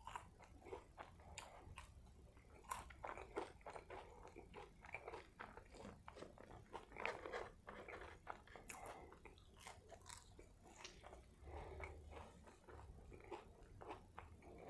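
A person chewing mouthfuls of a Burger King Ghost Pepper Whopper close to the microphone: quiet, irregular wet smacks and crunches in quick succession.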